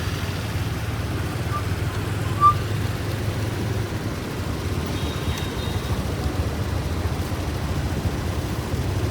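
Steady rumble of riding a motorbike in traffic: engine and rushing air. A brief high beep sounds about two and a half seconds in.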